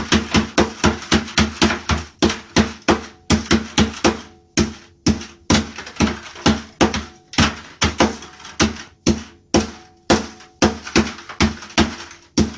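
A hammer striking CDs over and over on a hard surface, smashing them to pieces. The blows come fast, about three a second, each a sharp crack with a short ringing tone of the same pitch.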